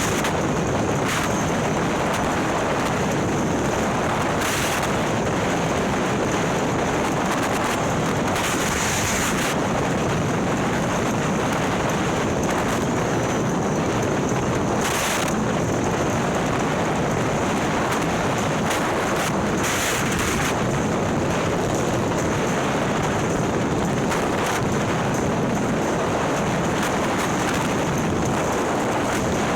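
Steady wind rushing over the microphone, mixed with engine and road noise from a Harley-Davidson Ultra Limited touring motorcycle riding at speed. The bike's Milwaukee-Eight V-twin is bored to 130ci and runs a ThunderHeader exhaust.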